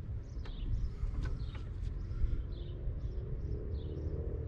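Low steady outdoor rumble with a few light clicks in the first two seconds and faint bird chirps throughout.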